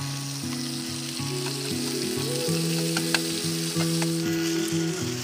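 Food frying in a ridged grill pan, an even sizzle with a few light clicks of chopsticks turning the pieces. Background music of sustained, changing notes plays under it.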